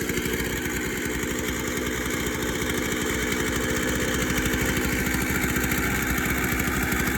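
A construction machine's engine running steadily at idle, with an even rapid pulsing.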